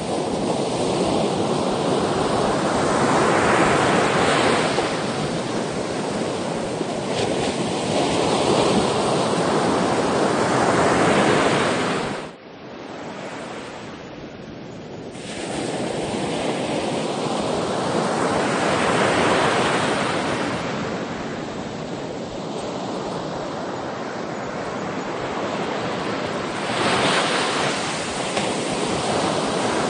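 Sea waves breaking and washing ashore in a steady, continuous surge that swells and ebbs every few seconds. The sound falls away abruptly about twelve seconds in and builds back up about three seconds later.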